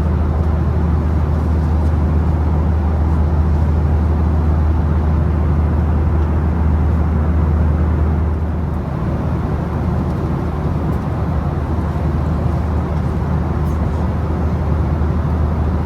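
Steady cabin noise inside a Boeing 737-800 in flight: a loud low drone of the engines under the rush of air past the fuselage, easing slightly about eight seconds in.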